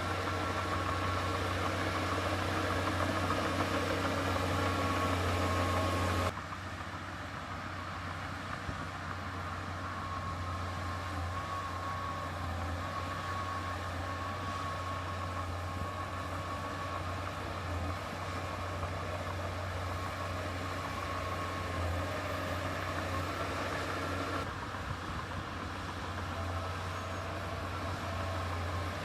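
Heavy diesel earthmoving machinery running steadily, a low engine drone with a thin steady whine above it. The sound changes abruptly about six seconds in and again near the end, as at cuts between shots.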